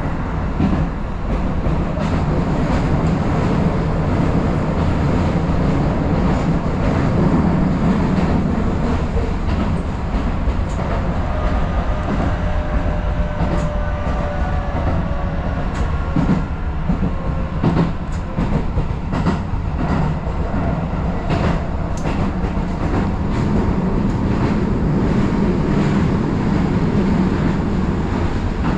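Keisei Line electric train running along the track, with a steady rumble and clicks of the wheels over rail joints that come more often in the second half. A faint whine sounds near the middle.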